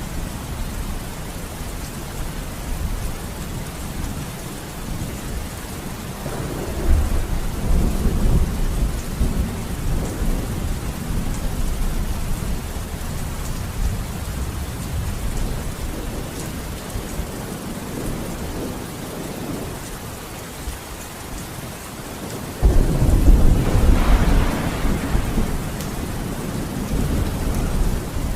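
Steady rain with thunder rumbling. The thunder swells about a quarter of the way in, and a sudden louder thunderclap hits near the end and rolls on for several seconds.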